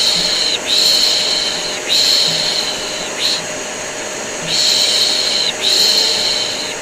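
Long, drawn-out 'shh' shushing, about one per second in runs of three with a short pause between runs, layered over the steady hum of a vacuum cleaner running: white noise for soothing a colicky baby to sleep.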